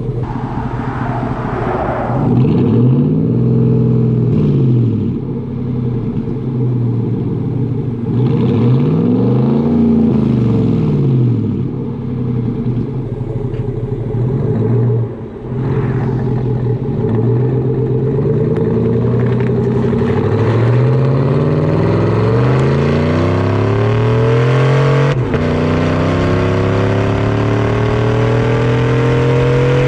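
GMC Sierra's L83 5.3-litre V8 through a Corsa Sport cat-back exhaust, driving and revving. The engine note rises and falls twice, has a short lull about halfway, then climbs steadily under acceleration, with a brief break about five seconds before the end.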